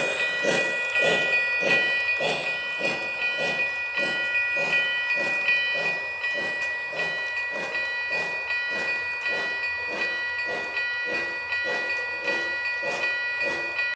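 Steam-train chuffing, a steady rhythm of about two hissing beats a second, with a few steady high tones held underneath.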